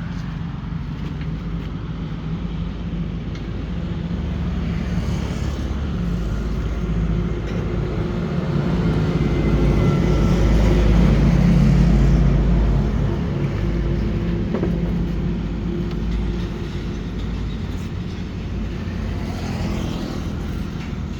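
A passing motor vehicle: a steady low engine sound that swells to its loudest about halfway through, then slowly fades.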